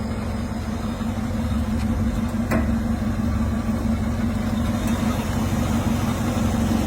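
A car engine idling steadily, with a single sharp click about two and a half seconds in.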